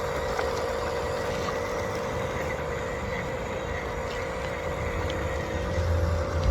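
Radio-controlled model construction machines running with a steady motor hum and a few light clicks; the low hum grows louder near the end.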